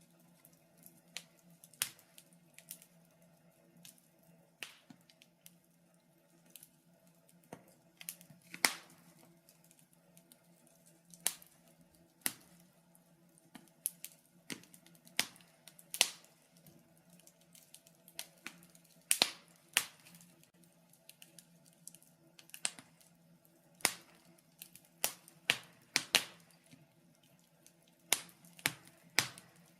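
Wood fire crackling: irregular sharp snaps and pops, sometimes several in quick succession, over a faint steady low hum.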